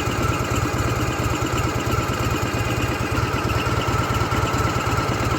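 Ural motorcycle's flat-twin engine idling steadily, with an even, rapid low pulse.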